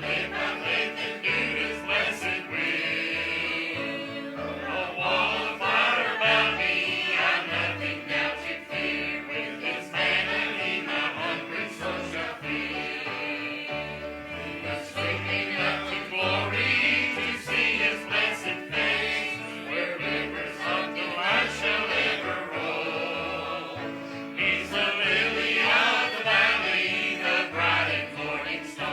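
Church choir singing a gospel hymn over instrumental accompaniment with a steady, regular bass line.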